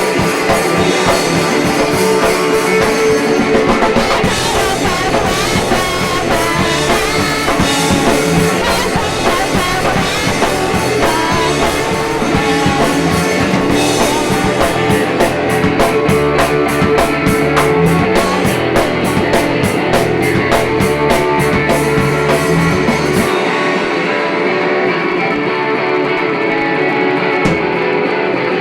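A three-piece indie-pop band playing live, with electric guitar, bass and drum kit. About 23 seconds in, the drums and bass stop and only strummed guitar carries on.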